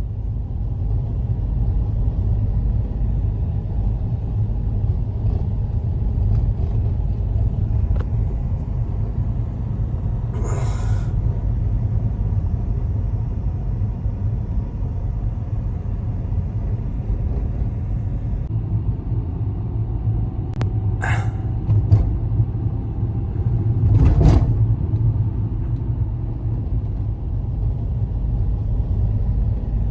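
Steady low rumble of snowstorm wind, with a few short knocks, one about ten seconds in and a cluster around twenty-one to twenty-four seconds in.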